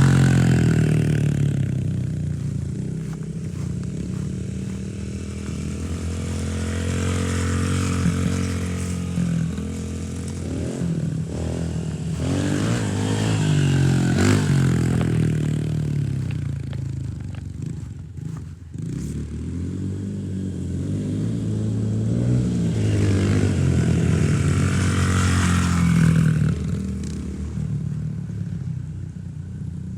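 Dirt bike engine running and being ridden, revving up and down over and over and growing louder and quieter in several swells.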